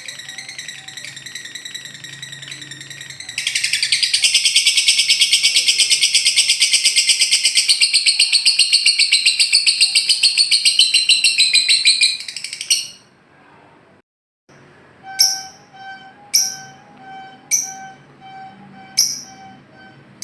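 Lovebird song: a high trill that about three seconds in becomes a loud, rapid rattling trill, the lovebird's 'ngekek', lasting about nine seconds before cutting off. After a brief gap, short sharp chirps repeat about once a second over faint repeating tones.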